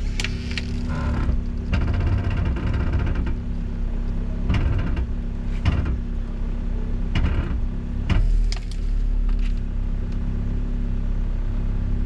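An engine running steadily, with several scattered clanks and knocks over it.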